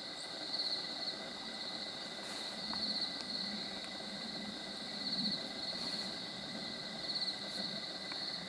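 Forest insects chirring in a steady high-pitched band, with louder pulsing trills now and then.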